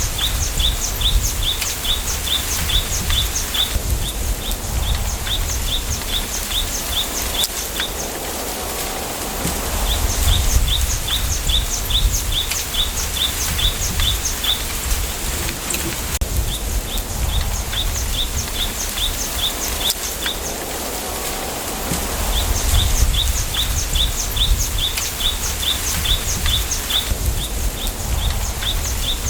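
Bamboo-forest ambience: a bird repeating short high chirps, three or four a second, in bouts of a few seconds about every ten seconds, over a low wind rumble that swells and fades.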